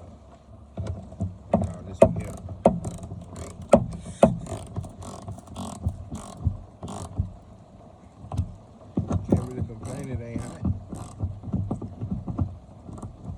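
Hand-tool work on a pickup truck: irregular sharp metallic clanks and knocks, thickening into a busier run of clatter about nine seconds in.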